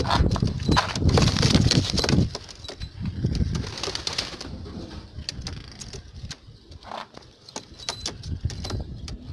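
Domestic pigeons cooing, loudest in the first two seconds and again briefly about three seconds in, with scattered sharp clicks and knocks.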